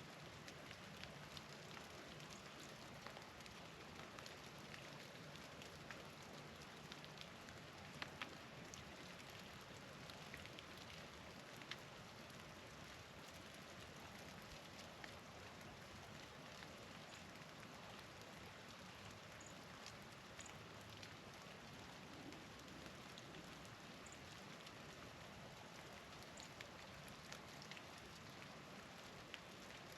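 Faint, steady patter of falling wet snow and sleet, with many small scattered ticks. A few faint high chirps come in the second half.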